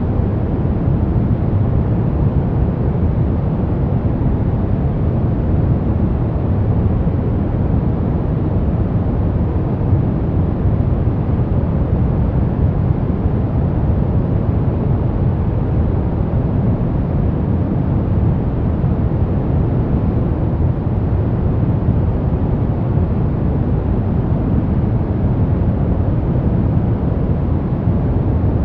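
Steady, unbroken sleep noise for babies, deep and rumbling rather than hissy, with most of its weight in the low end. It does not change at all.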